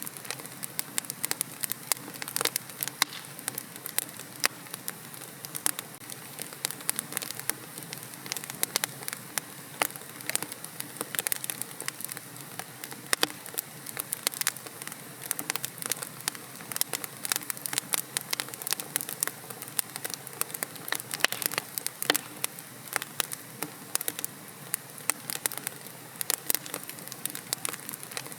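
Wood fire in a fireplace crackling: frequent irregular sharp pops and snaps of burning logs over a soft steady hiss.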